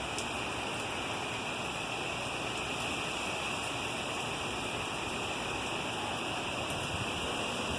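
Steady rain falling, an even hiss that holds at one level without gusts.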